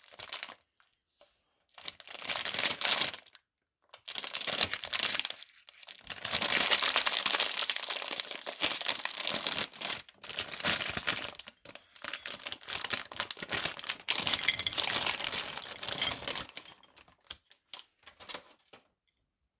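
Candy wrappers crinkling and tearing as chocolate banana candies are unwrapped, in bursts of crackling a few seconds long. It thins to a few scattered crackles and stops about a second before the end.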